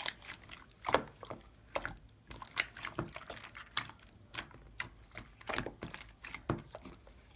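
Irregular sharp tapping clicks, a few each second, like typing.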